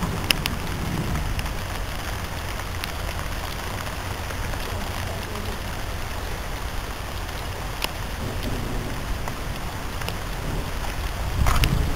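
Heavy rain falling: a steady, even hiss with a low rumble underneath and a few scattered sharp ticks, swelling briefly louder near the end.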